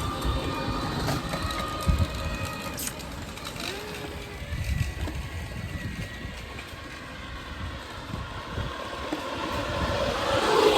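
Wind buffeting the microphone while riding a bicycle: an uneven low rumble that swells near the end.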